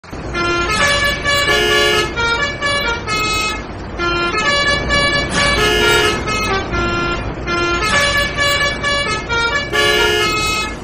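Musical vehicle horn playing a short tune of held notes that repeats about every four seconds.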